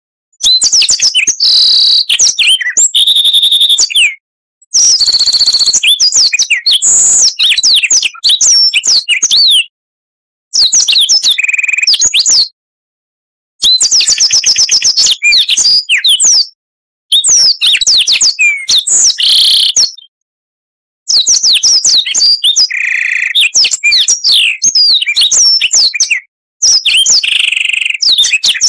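Oriental magpie-robin (kacer) singing loudly: rapid, varied phrases of whistles, chirps and buzzy notes. The song comes in bursts of a few seconds, each cut off abruptly into dead silence before the next.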